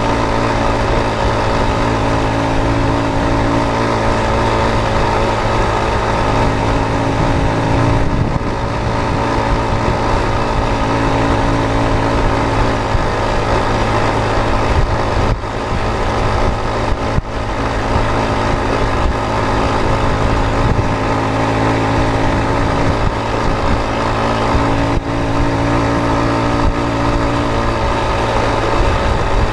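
Road vehicle engine running steadily with a constant low drone, its pitch shifting only slightly a few times.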